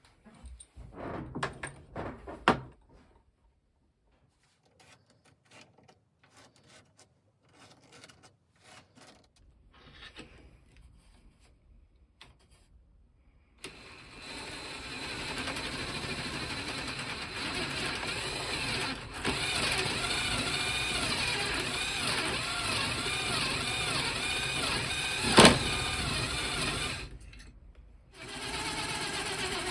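Knocks and clicks from handling, then an electric power-tool motor starting suddenly and running steadily for about thirteen seconds, with one sharp knock during the run. It stops briefly near the end and starts again.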